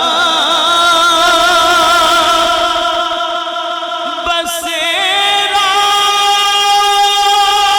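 A man singing a naat unaccompanied in one long, drawn-out melismatic line, the pitch wavering and ornamented. About five seconds in it settles onto a steady held note.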